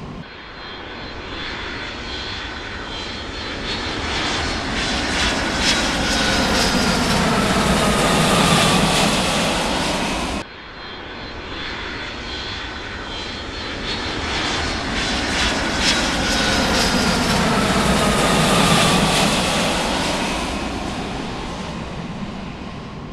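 Airplane engine noise passing overhead, swelling to a peak and fading with a slowly falling whine. The same pass plays twice back to back, cut off abruptly between the two.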